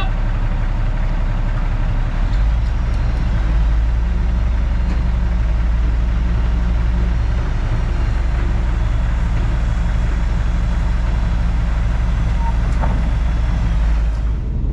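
Semi truck's diesel engine running steadily, a deep, even hum that grows stronger about two seconds in.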